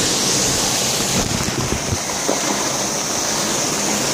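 Steady rush of heavy thunderstorm rain, with runoff water pouring along the gutter into a storm drain.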